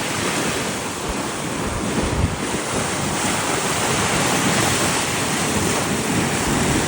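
Wind buffeting the microphone over the steady rush of seawater along the hull of a sailing yacht under way.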